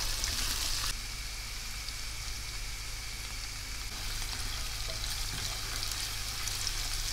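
Diced onion, blanched almonds and pine nuts sizzling in hot oil in a nonstick pan as they are sautéed and stirred with a silicone spatula. It is a steady crackling hiss that eases slightly about a second in.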